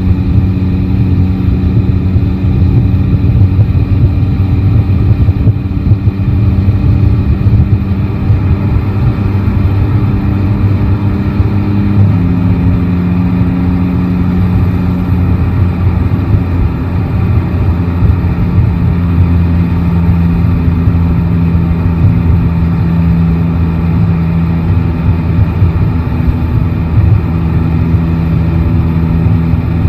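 Yamaha Tracer 9 GT motorcycle's three-cylinder engine running at fairly steady revs while riding. Its pitch steps up slightly about twelve seconds in, then eases slowly down.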